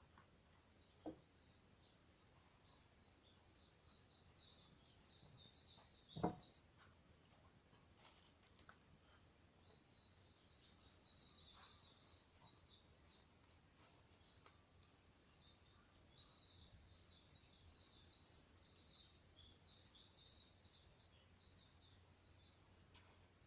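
Faint bird song: long runs of rapid, high-pitched chirps. A campfire gives a few sharp pops, the loudest about six seconds in.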